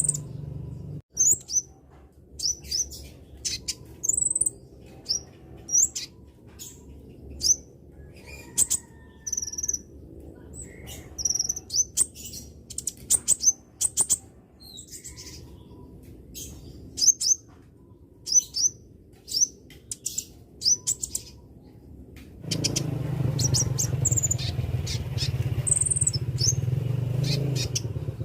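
Olive-backed sunbird (kolibri ninja, 'konin') calling: short, sharp, very high chirps and twitters, repeated irregularly. About three-quarters of the way through a steady low hum comes in under the calls.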